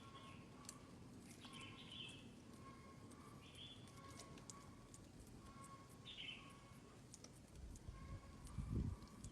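Faint bird chirps: short, falling calls, four or five in all, spread a second or more apart, over a steady low hum. A low rumble near the end.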